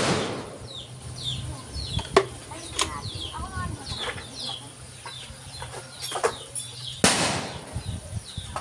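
Small birds chirping again and again in short, falling notes, with a low steady hum behind them. A loud rustling burst comes right at the start and another about seven seconds in.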